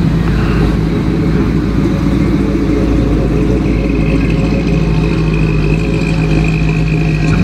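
1969 Ford Mustang fastback's V8 running at low speed as the car drives slowly past, a steady low exhaust note. A faint high whine comes in about halfway through.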